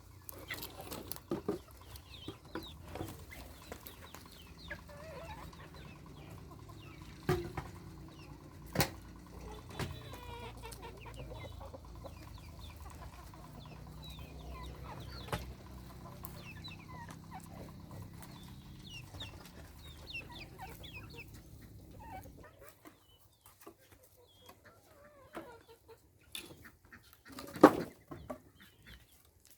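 Chickens clucking, with a few sharp knocks: one about 7 seconds in, one about 9 seconds in, and the loudest near the end. A low steady hum underneath stops about two-thirds of the way through.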